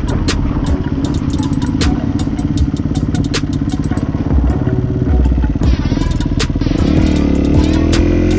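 Kawasaki KX250 dirt bike engine running at a steady pitch under the rider, with many sharp clicks over it; near the end the engine note climbs as the bike accelerates.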